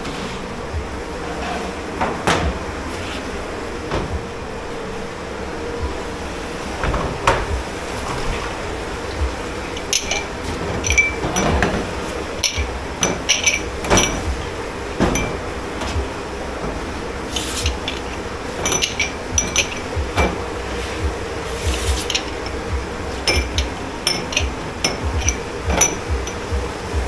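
Dishes, glasses and cutlery being handled and stacked at a commercial kitchen's washing station: scattered knocks at first, then many short ringing clinks from about ten seconds in, over a steady machine hum.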